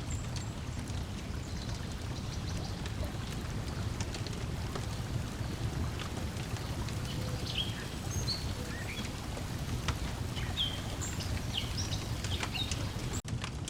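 Layered lakeside ambience: a steady low wash of water lapping at the shore, scattered crackles of a wood fire, and short bird chirps that come in around the middle. The sound briefly drops out near the end.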